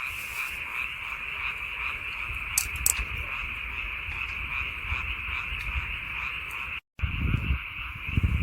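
Chorus of many frogs calling at once, a steady pulsing drone of overlapping croaks. A couple of sharp clicks come just before three seconds in; near the end the sound drops out for an instant, and a low rumble follows.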